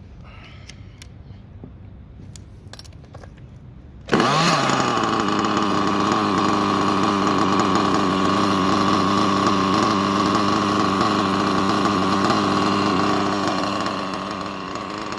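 A small nitro RC engine, a worn budget engine with a cracked head and low compression, fires up suddenly about four seconds in and runs steadily, easing slightly near the end as it settles toward idle. A few faint clicks come before it starts.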